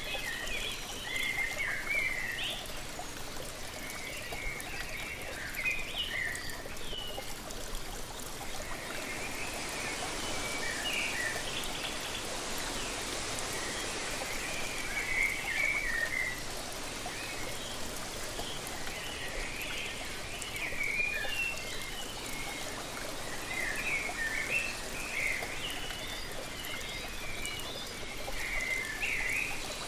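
Small birds chirping and singing in short, repeated phrases over the steady rush of a waterfall.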